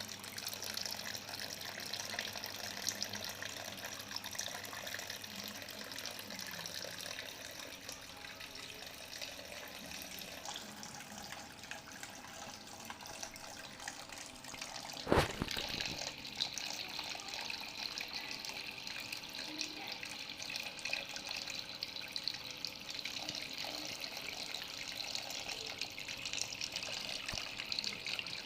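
Small cement water fountain running, its water trickling and splashing steadily. One sharp knock about halfway through.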